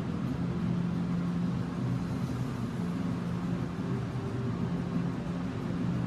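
Steady low rumble and hum of a running vehicle, with a few held tones and no change in speed.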